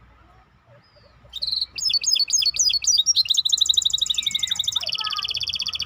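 A songbird singing. About a second in it starts a fast series of repeated down-slurred notes, then changes into rapid rolling trills held at a steady pitch, and near the end it drops to a lower trill that stops suddenly.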